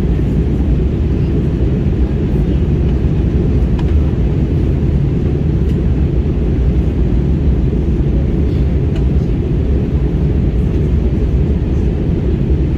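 Steady low drone inside an airliner's cabin in flight, from the engines and the air rushing past the fuselage.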